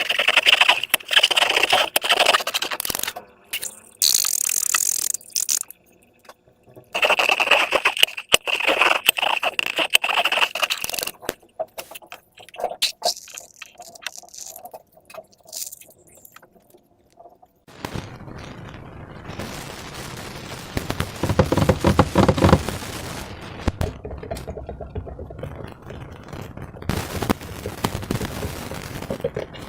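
Slime and balloons being worked by hand: runs of rapid sticky crackling and squelching, in bursts during the first half and as a longer steady stretch from about two-thirds of the way in.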